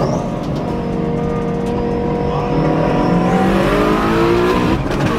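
Twin-turbo Ford Mustang GT350 engine at full throttle, pulling hard through the gears. Its pitch climbs steadily in each gear, with upshifts about two and a half seconds in and again near the end.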